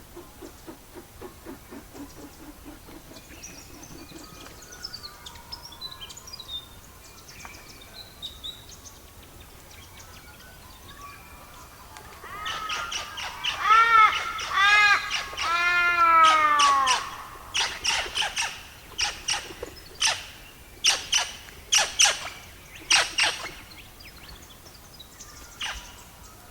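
A bird calls with a run of loud, arching, down-curving notes about halfway through. A string of sharp clicks or pops follows, over a soft steady hiss.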